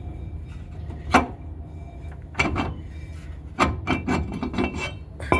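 Metal brake parts being handled: a hard knock about a second in, then bursts of quick knocks and clinks, some leaving a short metallic ring, as the removed brake rotor is set down and moved about.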